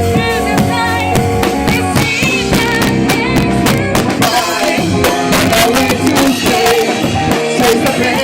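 Live rock band playing a song, drums and guitar, with a melodic lead line bending in pitch above them; recorded with scratchy, distorted sound quality.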